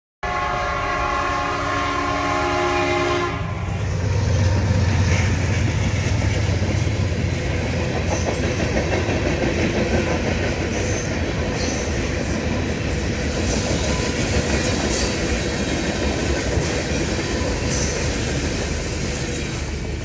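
Locomotive horn sounding one long blast of several tones held together, cutting off about three seconds in. Then the locomotive's engine rumbles past and the train rolls by steadily.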